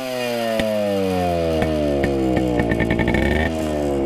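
Yamaha RX100's single-cylinder two-stroke engine, running through an exhaust with the silencer baffle mesh removed, revved in neutral: the revs fall away slowly after a blip, rise briefly again about three seconds in, then fall once more, with sharp pops from the open exhaust along the way.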